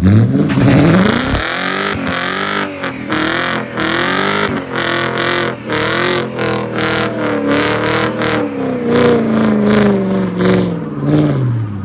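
Car engine revved hard: it climbs quickly at the start, is held at high revs with rapid repeated cuts, and falls away near the end.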